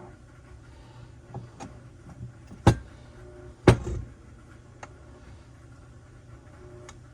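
A few sharp knocks and clicks of parts and tools being handled during a two-stroke saw engine rebuild, the two loudest about a second apart near the middle, over a steady low hum.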